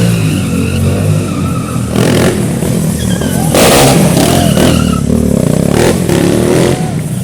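Stunt motorcycle engine being revved hard, its pitch rising and falling in several sharp surges over a steady running drone, loudest around the middle.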